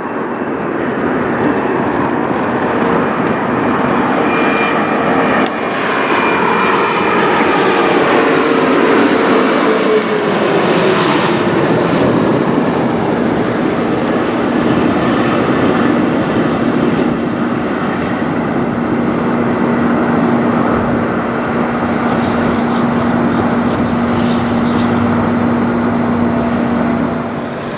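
Mitsubishi CRJ900 regional jet's twin rear-mounted turbofans as it flies low overhead on arrival. The jet noise builds over the first seconds and peaks about ten seconds in, where an engine whine glides down in pitch as the aircraft passes. It then stays loud with a steady hum as the aircraft moves away.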